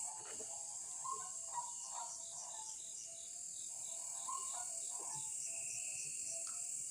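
Night insect chorus: a steady high-pitched buzz with chirps repeating about three times a second, and scattered lower calls mixed in.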